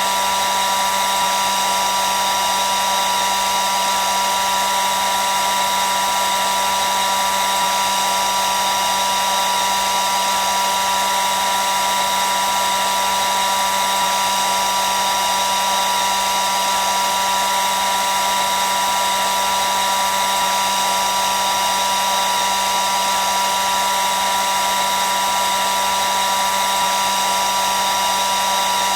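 Hair dryer running continuously, a steady rush of air with a constant whine from its motor and fan.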